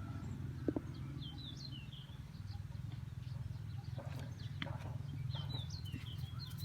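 Small birds chirping in two short runs of quick up-and-down chirps, one about a second in and another near the end, over a steady low hum.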